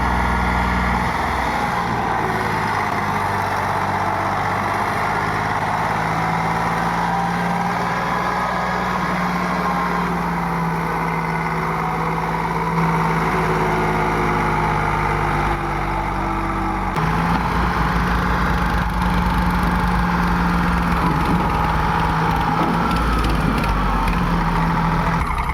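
Tractor diesel engine running steadily, with a change in its note about 17 seconds in.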